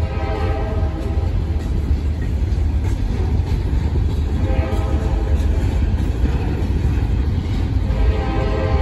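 Empty wood chip hopper cars of a freight train rolling past with a heavy, steady rumble. A pitched, multi-toned whine rides on top, fading about two seconds in and returning near the end.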